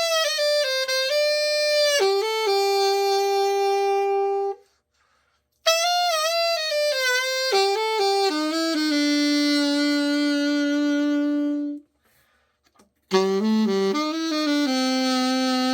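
Selmer Super Action 80 Series II alto saxophone played solo after an overhaul, a play test of the repaired horn. There are three short phrases, each a few quick notes ending on a long held note. The first breaks off about four and a half seconds in, the second just before twelve seconds, and the third starts about a second later.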